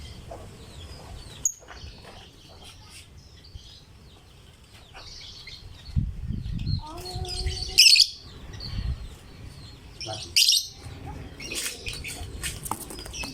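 Lovebird chirping in shrill, sharp bursts. The loudest calls come about eight and ten and a half seconds in, followed by a quick run of chirps near the end. There is a low rumble about six seconds in.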